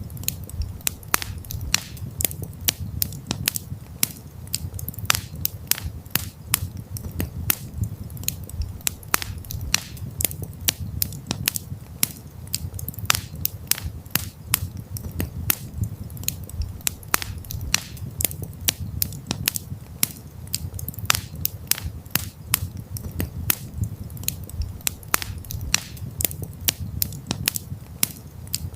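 Wood campfire crackling: frequent irregular sharp pops and snaps over a low, steady rumble of the flames.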